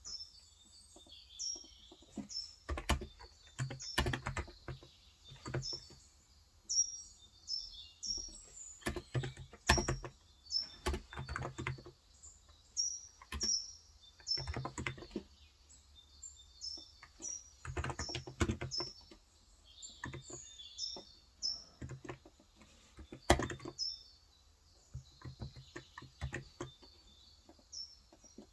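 Typing in bursts on a Cox Endeavor electrostatic capacitive (contactless) tenkeyless keyboard with 35 g switches, short pauses between the runs of keystrokes. Small birds chirp repeatedly throughout with short, high, falling notes.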